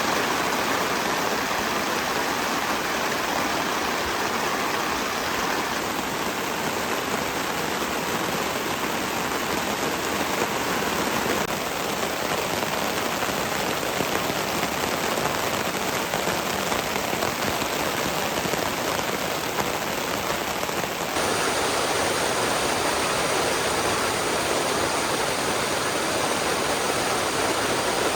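Steady rushing water, a dense even hiss of heavy rain or a fast river, which changes abruptly in character about three-quarters of the way through.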